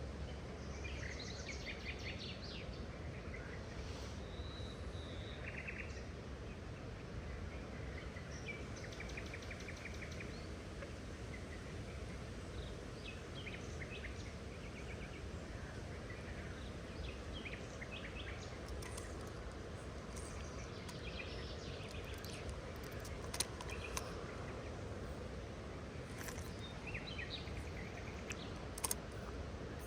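Several birds chirping in short scattered calls over a steady low outdoor background noise, with a couple of sharp clicks in the last third.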